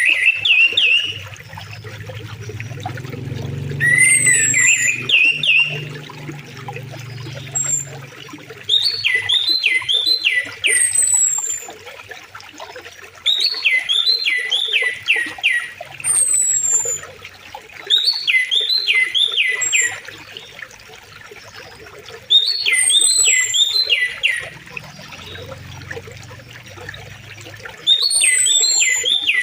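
A songbird singing the same short phrase over and over, about every four to five seconds: a quick run of three or four downward-sweeping whistled notes with a thin high note above them. Beneath it, river water flows and trickles steadily.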